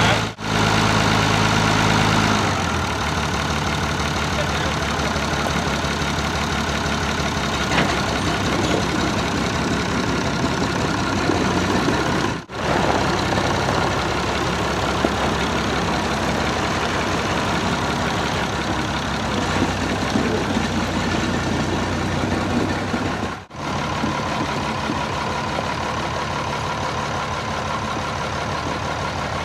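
Farm tractor engine running steadily, its note changing a little about two seconds in. The sound drops out very briefly three times.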